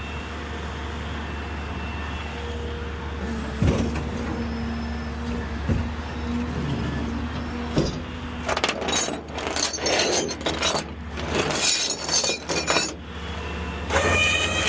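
A vehicle engine idling steadily, with a run of irregular metallic clattering and clinking in the second half.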